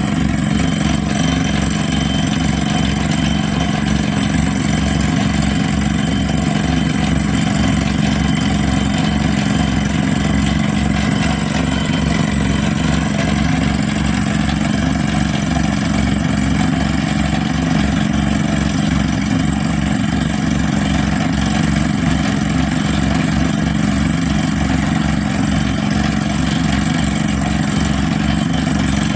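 Engine running steadily at constant speed, with an even low pulse.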